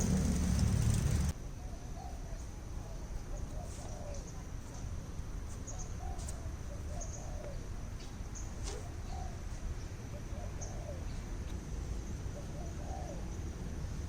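A loud low rumble, like wind on the microphone, cuts off about a second in. Then birds calling: short repeated low calls with scattered high chirps over faint background noise.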